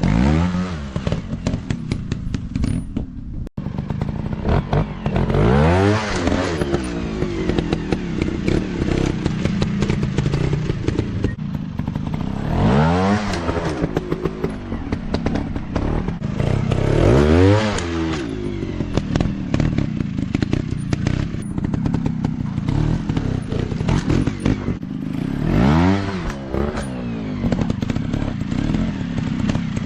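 Dirt bike engines revving hard and easing off again and again, the pitch climbing and falling every few seconds, with clatter and knocks from the bikes over rough ground. The sound cuts out for an instant about three and a half seconds in.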